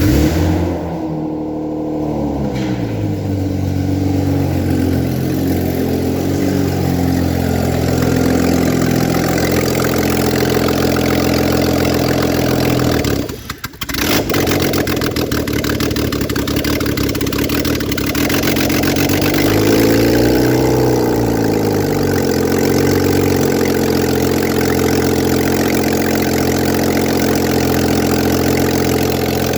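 BMW M52TU 2.5-litre straight-six petrol engine starting and running, its idle speed sliding down over the first several seconds and then holding steady. The sound drops out briefly about thirteen seconds in, and around twenty seconds in the engine is revved once, rising and falling back to idle.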